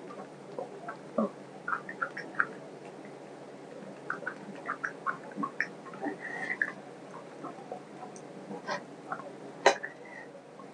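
Close-up, wet mouth sounds of chewing chicken curry and rice, with irregular short smacks and clicks, while fingers squish and mix rice into the gravy on a steel plate. One louder sharp click near the end.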